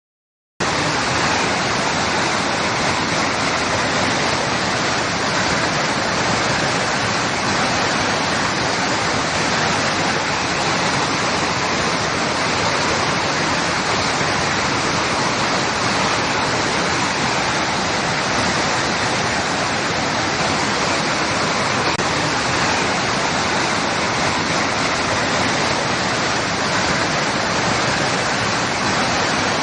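Water rushing and washing against rocks in a steady, even roar, cutting in suddenly about half a second in and holding unchanged.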